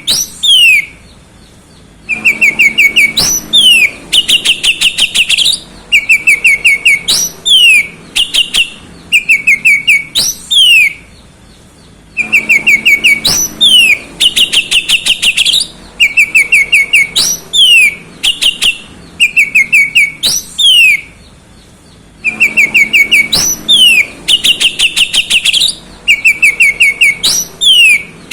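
Oriental magpie-robin singing loud, fast phrases of sharp falling whistles and rapid runs of chattering notes, with short pauses between phrases. The same song sequence repeats about every ten seconds.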